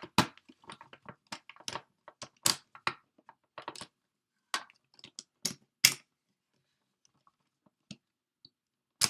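Hard plastic toy parts of DX Zyuohger cube robots clicking and clacking as they are handled and snapped together: a quick run of sharp clicks at first, a few more in the middle, then a pause before one loud snap at the end.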